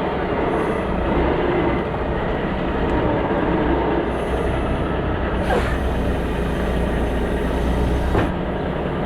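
Semi truck running down the road, heard as a steady heavy rumble and road noise, with two sharp knocks about five and a half and eight seconds in.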